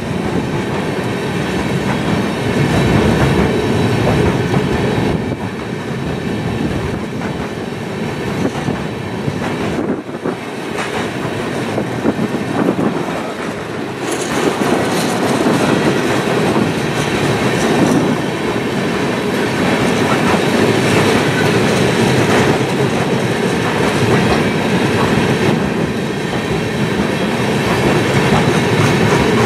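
Freight train of covered hopper cars rolling past, a steady loud run of steel wheels on the rails.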